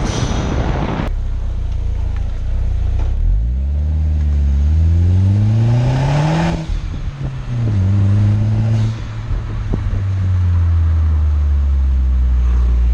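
Skoda Octavia vRS with a Milltek exhaust and Pipercross intake. The engine climbs steadily in pitch for about three seconds, drops off about six and a half seconds in, then picks up again and holds a steady drone that sags slowly. A rushing noise comes in the first second.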